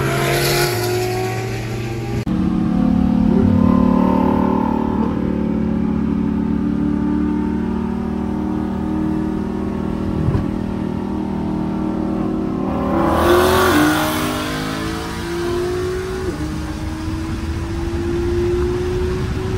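Car engine running hard under acceleration, its pitch climbing slowly with a few sudden drops. A swell of rushing noise rises and fades about 13 seconds in.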